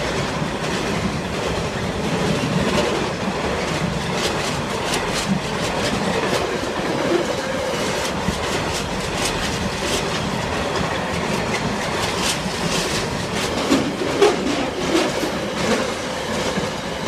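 Freight train wagons rolling past: a steady rumble with the clickety-clack of wheels over the rail joints.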